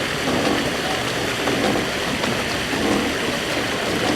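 Paddle boat's pedal-driven paddle wheel churning the pond water, a steady splashing with a loose rhythmic swell.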